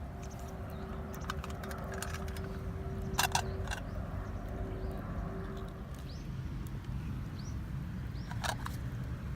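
Wood campfire burning with scattered crackles and two louder sharp snaps, one about three seconds in and one near the end, over a steady low rumble; faint bird chirps in the background.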